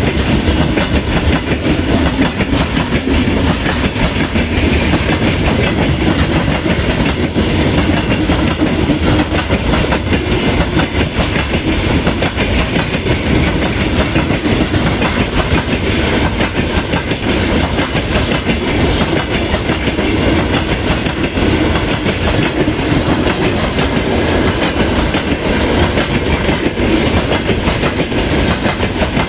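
Railway cars rolling past with a steady, continuous clickety-clack of wheels over the rail joints.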